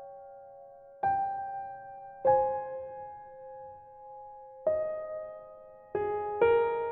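Soft background piano music: slow, sparse chords struck a second or two apart, each left to ring and fade.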